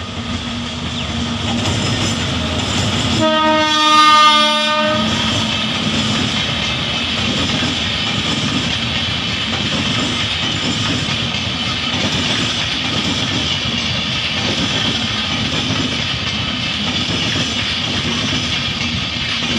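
Indian Railways express train passing close by: one horn blast about three seconds in, lasting about a second and a half and the loudest sound, then the steady rumble and clickety-clack of the passenger coaches running over the track.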